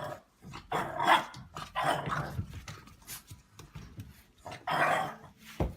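A dog barking several times, in separate bursts, with a short knock near the end.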